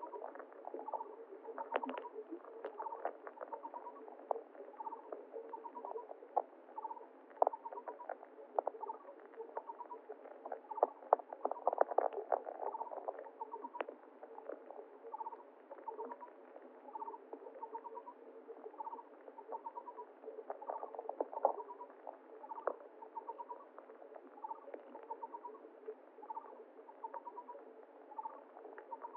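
Muffled stream ambience: water ticking and pattering, busiest around the middle, with a small animal's short chirping call repeating about once every second or so.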